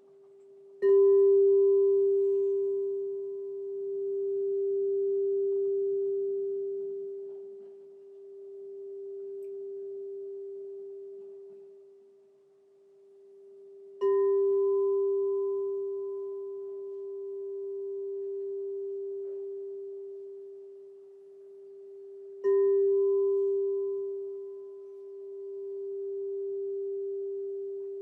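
Crystal singing bowl struck three times, each strike ringing on as one clear, pure tone that slowly swells and fades in waves as it dies away.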